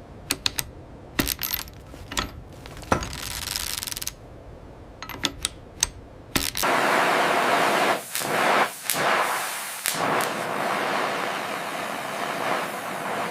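Workshop sounds of work on the seized locomotive engine: a series of sharp metallic clicks and knocks. About halfway through, a loud steady hiss sets in and dips briefly a few times.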